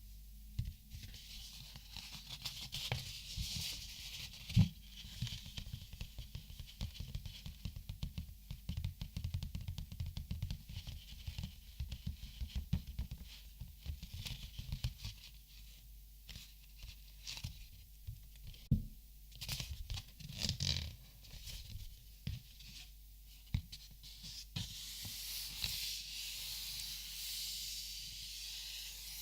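Close-miked handling of markers and paper: a dense patter of light taps, clicks and rustling for about the first half, then scattered sharper clicks, and a steady soft hissing rub near the end.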